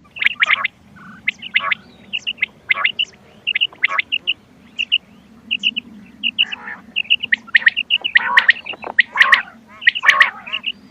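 Recorded quail calls: quick high chirps repeated in twos and threes, mixed with louder, harsher calls that crowd together in the second half, over a faint steady low hum.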